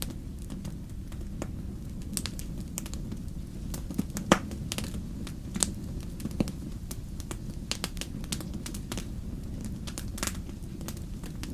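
Wood campfire crackling: irregular sharp pops and snaps over a steady low rumble, with the loudest pop about four seconds in.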